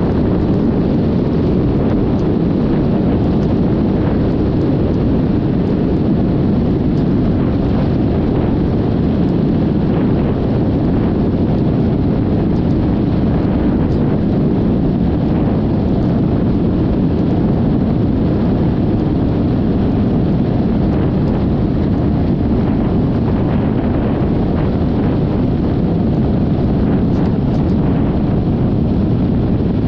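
Steady, loud wind rush buffeting the camera microphone while riding a Yamaha XMAX 300 scooter, with the scooter's running and road noise blended underneath.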